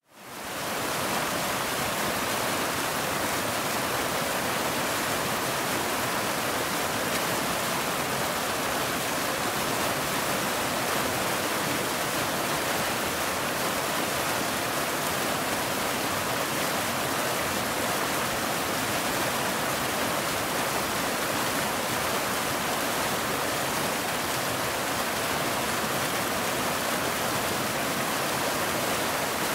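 Waterfall rushing: a steady, even wash of falling water that fades in from silence in the first second and then holds level.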